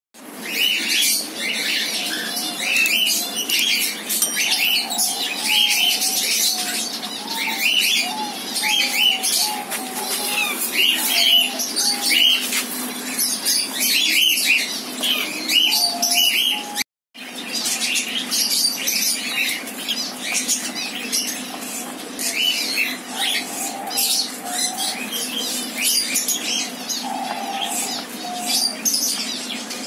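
Many cockatiels chirping and squawking together in a steady chorus of short, repeated calls, with a brief cut-out a little past halfway.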